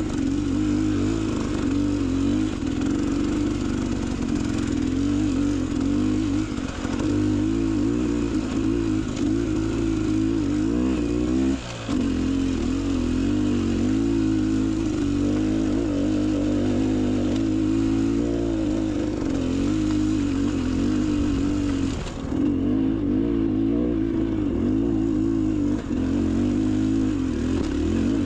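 Beta Xtrainer 300 two-stroke dirt bike engine running under constantly changing throttle on a trail, the pitch rising and falling as it revs. There are brief throttle cuts about 12 seconds in and again about 22 seconds in.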